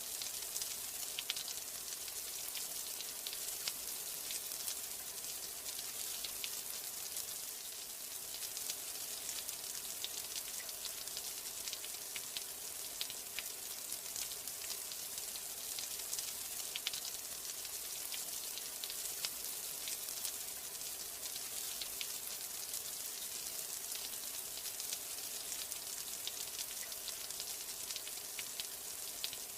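Steady rain: an even hiss of falling drops, dense with fine ticks of individual drops striking.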